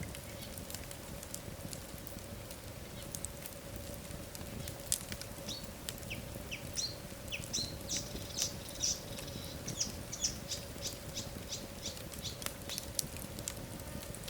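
Wood fire burning in a fireplace, crackling and popping in irregular sharp clicks. Short high squeaks and whistles come in the middle, typical of sap and steam escaping from burning logs. A faint steady hum sits underneath.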